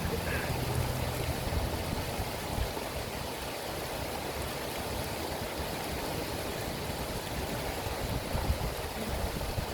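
River water flowing: a steady rush of running water.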